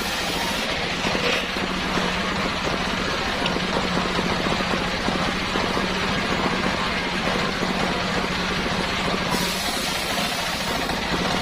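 Homemade engine-driven circular saw rig running steadily, with a constant low hum and noise. The high-pitched hiss fades about a second in and returns near the end.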